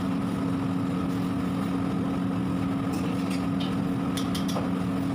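A machine running with a steady, unchanging hum, with a few light clicks about three to four and a half seconds in.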